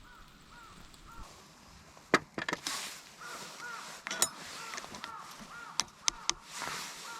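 A bird repeats short, arched call notes, about two or three a second, with a gap between about one and three seconds in. Several sharp knocks and bursts of rustling break in from about two seconds in; the knocks are the loudest sounds.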